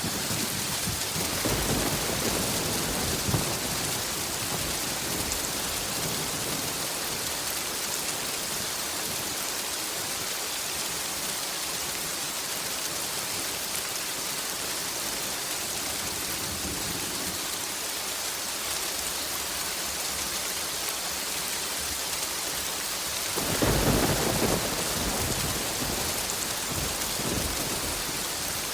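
Steady heavy rain with thunder: low rumbles about two seconds in, and a louder roll of thunder starting near the end that fades out over a few seconds.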